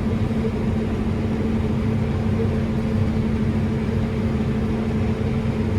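Combine harvester running steadily while cutting wheat, heard from inside the cab as an even drone with a constant hum.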